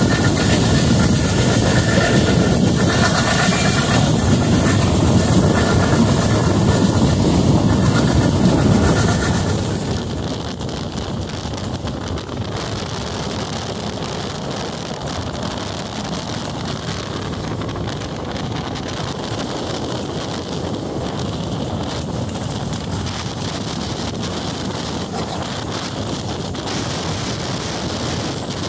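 Train running on the rails, with wind on the microphone. For about the first ten seconds it is louder, with a high ringing whine over the rumble. It then settles to a quieter, steady running noise.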